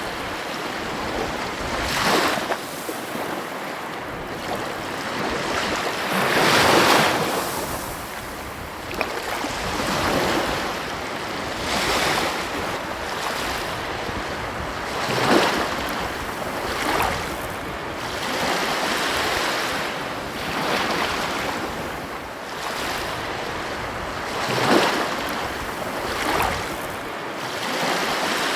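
Ocean surf: waves breaking and washing on the shore. The rush rises and falls every few seconds, with the biggest swells about seven, fifteen and twenty-five seconds in.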